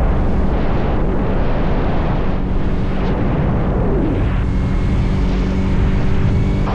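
Motorcycle engine running at a steady cruise, its hum mixed with a heavy rush of wind noise from riding at speed.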